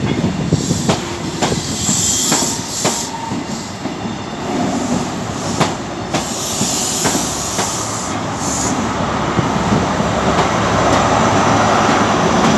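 Intercity 125 high-speed train pulling out past the platform: the coaches' wheels click irregularly over rail joints and squeal in short spells. Near the end the rear Class 43 power car comes by with its diesel engine running, and the sound grows louder.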